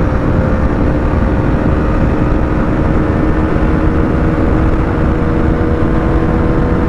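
Husqvarna Vitpilen 250's single-cylinder engine held at high revs near top speed, a steady drone at constant pitch over heavy rushing wind noise.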